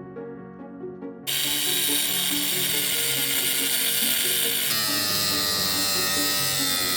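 Soft background music, then about a second in a power tool starts abruptly and runs loud and steady, its harsh whine shifting in pitch about two thirds of the way through.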